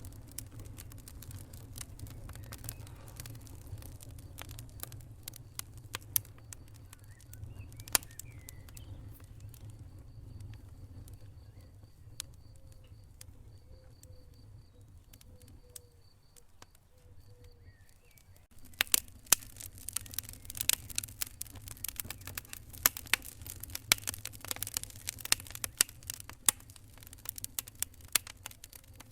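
Wood fire burning with a low steady rumble and scattered crackles and pops, which turn into dense, rapid crackling about two-thirds of the way through.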